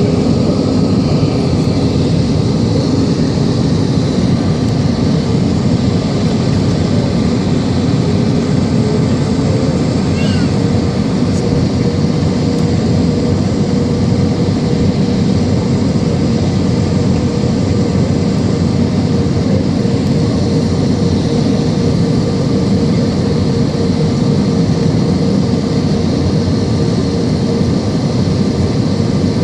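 Airbus A320 jet engine noise: a steady rumble with a steady whining tone that rises slightly about ten seconds in.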